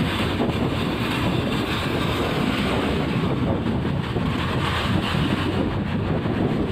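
Wind buffeting the microphone over steady road and vehicle noise.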